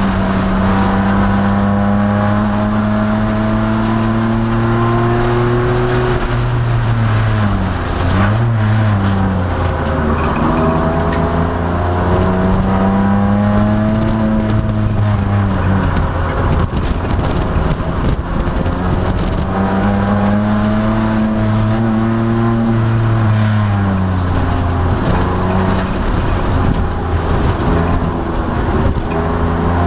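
2002 Nissan Maxima race car's V6 engine under hard lapping: the revs climb steadily, then fall away sharply three times, as the car brakes and downshifts for corners.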